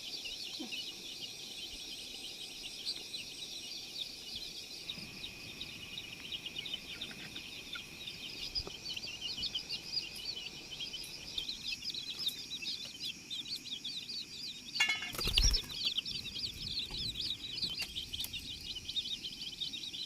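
Dense high-pitched chirping chorus, many quick chirps over a steady high tone, with a brief low thump about fifteen seconds in.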